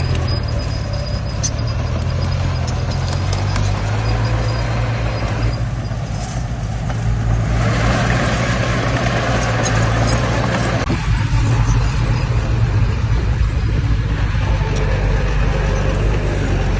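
Heavy diesel engine of earthmoving machinery running steadily under load. A rushing noise rises about seven seconds in and eases off about four seconds later.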